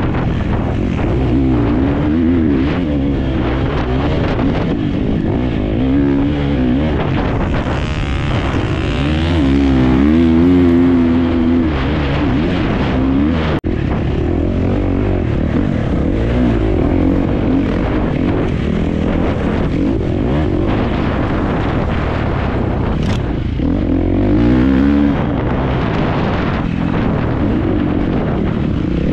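Off-road racing motorcycle engine running hard, its pitch rising and falling over and over as the throttle is opened and closed. The sound drops out for an instant about halfway through.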